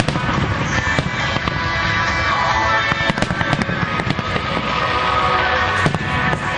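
Aerial fireworks shells bursting in a string of bangs and crackles, over music playing along with the show.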